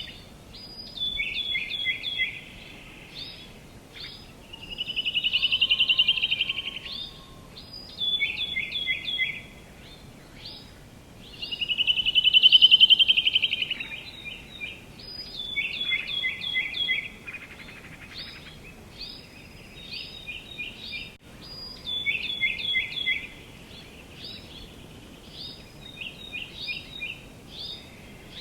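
Songbird singing: short phrases of a few quick, clear notes repeated every second or two, with a longer trill twice, the second trill the loudest, about halfway through. Faint steady outdoor background noise underneath.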